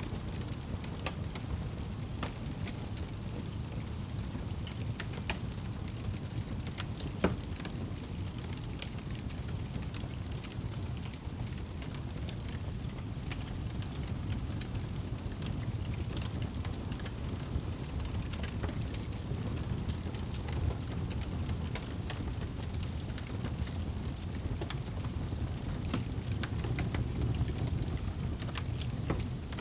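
Wood fire crackling in a fireplace: a steady low rumble of flames with scattered small pops, and one sharper pop about seven seconds in.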